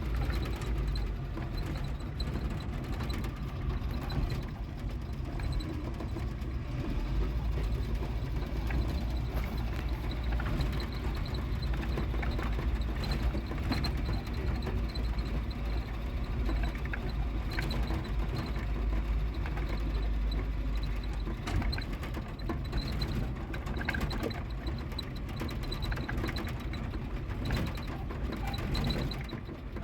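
Vehicle driving over a rough mountain track: a steady low engine and road rumble with frequent knocks and rattles from the bumpy ground.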